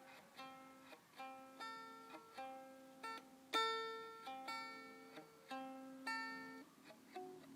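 Music on a plucked string instrument: a melody of single plucked notes, about two to three a second, each ringing and fading.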